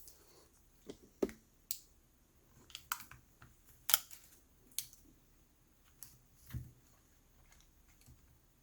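Scattered light clicks and taps of small laptop parts being handled and set into the opened laptop chassis, irregular, with a sharper click about four seconds in.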